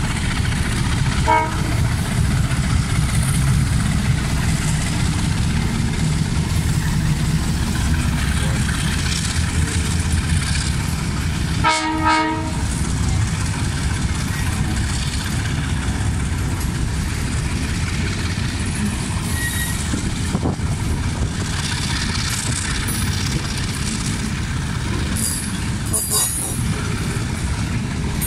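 Long freight train of empty open steel wagons rolling past with a steady low rumble of wheels on rail. About twelve seconds in, the diesel locomotive's horn sounds one short blast.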